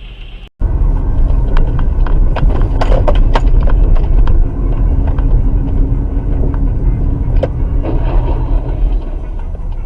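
Car road noise recorded by a dashcam, a loud low rumble with scattered clicks and knocks, bunched a few seconds in.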